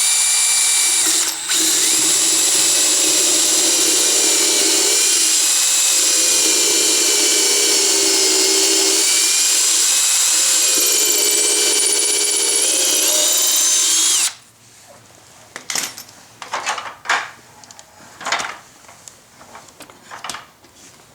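Electric drill running at speed, boring a pilot hole in wood, with a steady whine that dips briefly about a second and a half in and stops at about fourteen seconds. After that, a few knocks and clicks of the drill and workpiece being handled.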